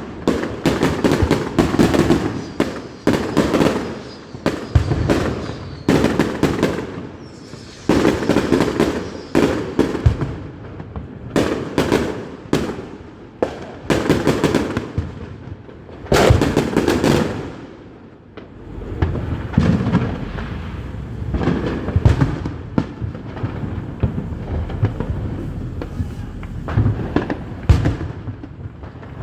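Fireworks going off: a rapid barrage of bangs and pops, several a second. After about two-thirds of the way in it thins to a low rumble with scattered pops.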